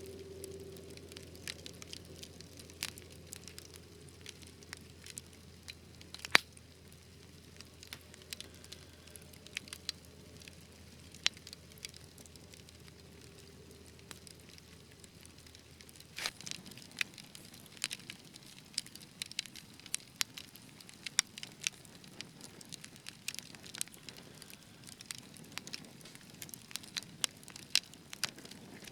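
Wood fire crackling: irregular sharp pops and snaps over a soft hiss, sparse at first and growing busier about halfway through, with one louder pop about six seconds in.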